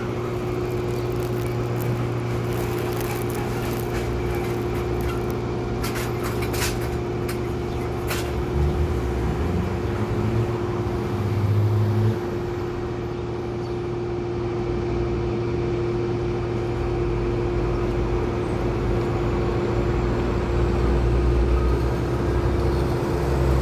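Steady low rumble of a running motor vehicle or nearby traffic, with a constant hum. A few sharp clicks come about a third of the way in, and the rumble swells louder briefly around the middle and again near the end.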